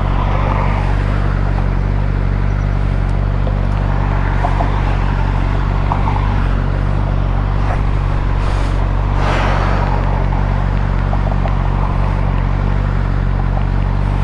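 Suzuki GSX-R 600 inline-four motorcycle engine running at steady revs, its pitch unchanging throughout, with a noisy hiss over it that swells briefly twice.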